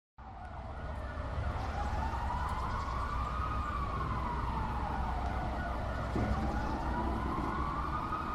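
A siren wailing slowly up and down, two long rises and falls, over a steady traffic-like rumble.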